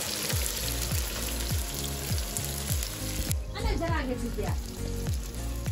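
Sliced onions sizzling as they fry in hot mustard oil in a wok, over background music with a steady beat. The sizzling drops away about three seconds in.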